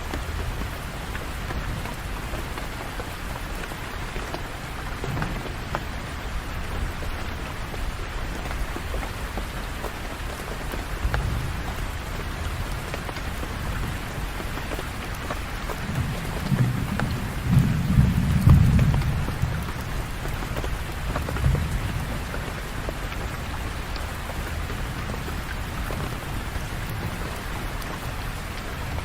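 Steady rain falling, with fine scattered drop ticks, and a low rumble of thunder that swells and fades a little past halfway through.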